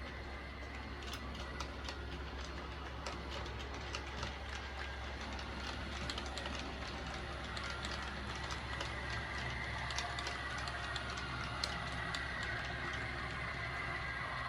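OO gauge model train running along the track: irregular clicking of wheels over rail joints over a steady motor hum, with a higher whine that grows and gets slightly louder in the second half.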